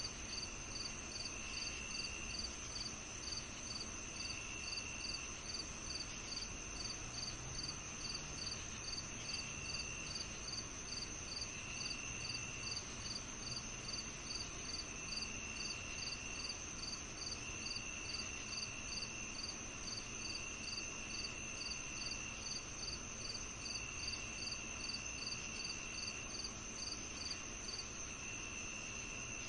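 A chorus of crickets chirping. It has a steady high trill, a regular chirp about three times a second, and a lower trill that comes in spells of about a second, every couple of seconds.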